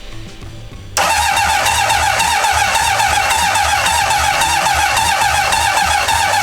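Honda CB750 inline-four being cranked on its electric starter, with a steady fast churning rhythm that cuts in suddenly about a second in. The engine doesn't fire, because fuel is not filling the carburettors.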